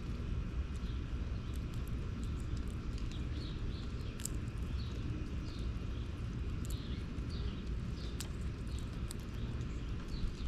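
Small birds chirping, short high calls repeating through the middle of the stretch, with scattered sharp little clicks over a steady low outdoor rumble.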